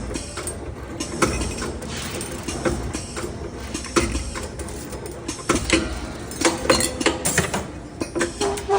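CNC 3D wire bending machine at work, its motors running as the wire is fed and bent, with irregular clicks and metallic clanks over a low rumble that swells and fades.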